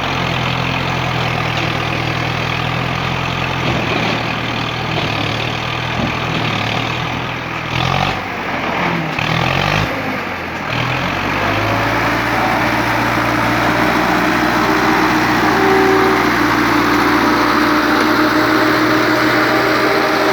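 Heavy vehicle engine running steadily, its pitch dipping and swinging a little past the middle, then running higher and somewhat louder through the rest, as under load.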